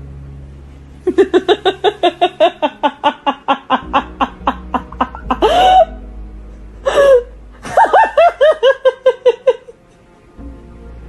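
A high voice in quick laugh-like bursts, about five a second, in two runs with a rising squeal between them, over background music.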